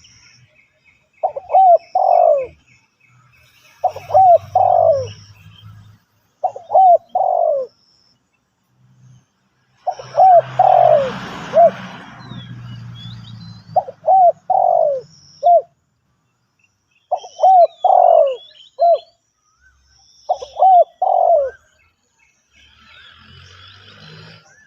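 Spotted dove cooing: a phrase of two or three falling coos, repeated about every three seconds. Faint chirps of small birds sound higher up, and a burst of noise comes about halfway through.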